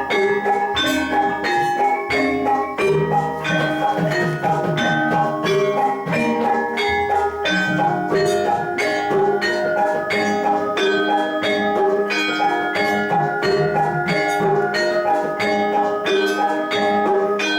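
Javanese gamelan playing jathilan accompaniment in the Semarangan style: bronze metallophones and gong-chimes struck in a fast, even pulse, layered in interlocking patterns.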